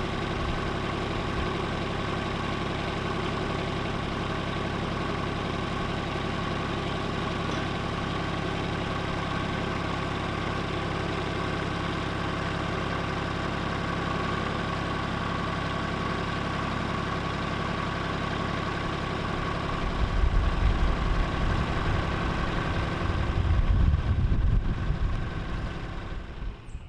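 Tractor engine idling steadily. About two-thirds of the way in, a louder, uneven low rumble comes in with it and fades near the end.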